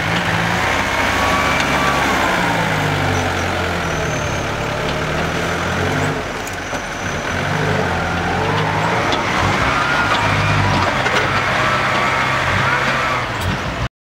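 Six-wheel dump truck engine running, its pitch rising and falling as it is revved and eased off. The sound cuts off abruptly near the end.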